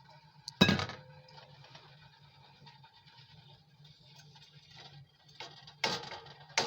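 Cookware and utensil sounds at the stove: a sharp knock with a short metallic ring about half a second in, then scraping and clattering near the end, over a low steady hum.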